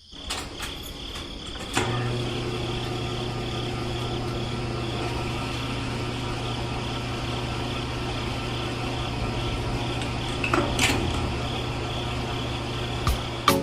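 A small electric motor running steadily with a thin high whine, its lower hum setting in with a click about two seconds in. A few sharp clicks and knocks occur, one near the start and a couple near the end.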